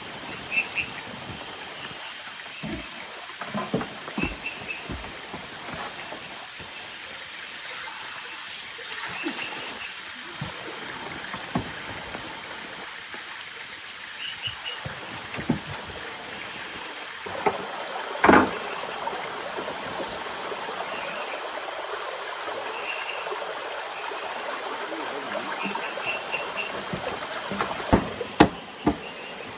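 Steady rush of rain and running water, with scattered sharp taps and knocks, the loudest a little past halfway, and faint short high chirps now and then.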